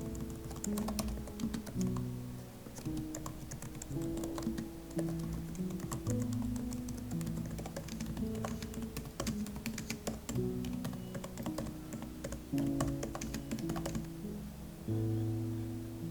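Typing on a computer keyboard: quick, irregular key clicks that stop about fourteen seconds in, over soft background music.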